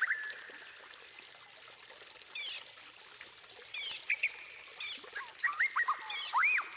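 White-rumped shama (murai batu) singing: the tail of a fast trill, a pause, then scattered clear whistled notes that grow into a run of looping, rising-and-falling whistles in the last couple of seconds.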